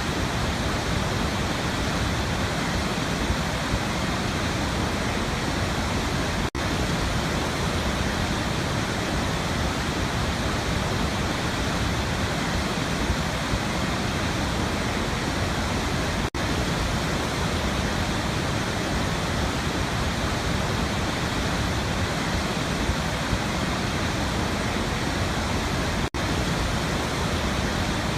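Waterfall, a steady rushing of falling water with no change in pitch or strength, broken by three very brief dropouts about ten seconds apart.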